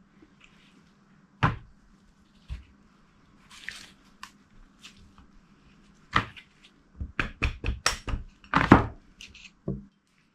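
Dead blow hammer knocking on a siliconed cover of a KTM 250SX cylinder to break the sealant's bond. There are two single knocks, a brief scrape, then a quick run of about a dozen knocks near the end.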